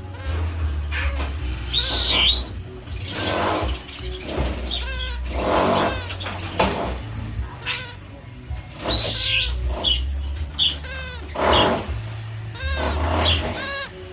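A series of short animal calls, chirps and squawks with quick rising and falling pitch, repeated every second or so.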